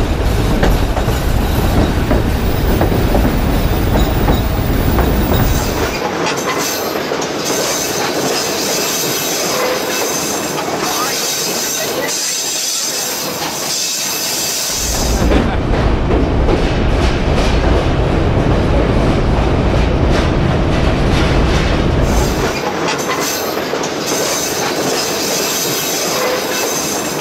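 Passenger train running on a mountain railway, heard from aboard: a continuous rumble and rattle of the cars and wheels on the track. A heavy low rumble comes and goes in stretches, changing abruptly about six, fifteen and twenty-two seconds in.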